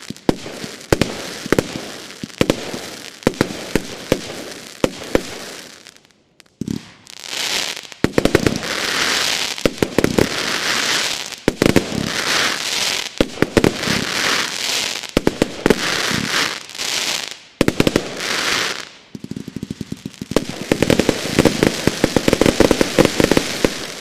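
Consumer firework battery firing: rapid volleys of sharp launch and burst bangs with stretches of crackling hiss between them, breaking off briefly about six seconds in before firing on to the end.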